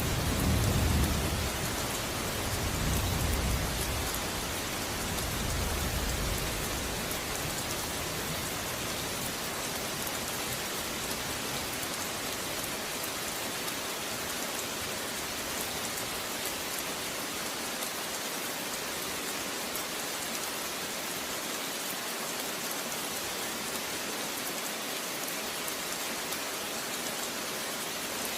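Steady rain falling, an even hiss. A low thunder rumble is dying away over the first several seconds, swelling twice more before it fades out.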